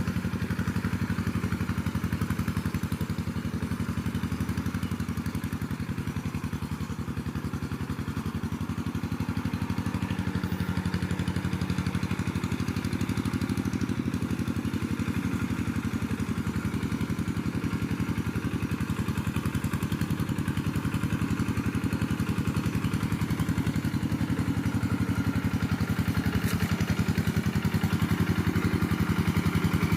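Stihl chainsaw's two-stroke engine running at a steady speed, without revving up or down.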